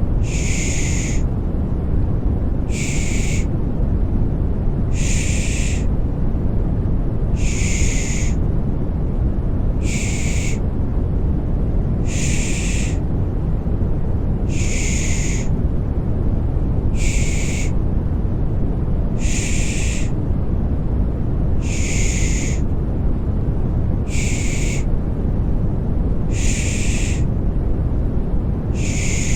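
Baby-soothing 'shh' shushing, one short hiss repeated evenly about every two and a half seconds, over a steady deep rushing white noise.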